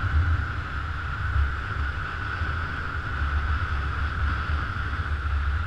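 Wind rumbling on the microphone of a moving Honda scooter, over a steady high drone.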